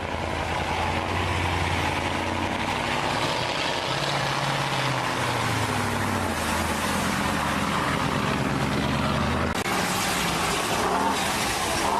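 Big diesel truck engine running off road, its pitch rising and falling as the revs change. The sound changes abruptly about nine and a half seconds in.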